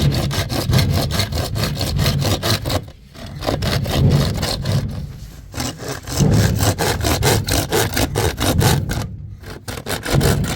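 Rapid, rhythmic back-and-forth scraping strokes, about five a second, like sawing or rasping, with short breaks about three and nine seconds in.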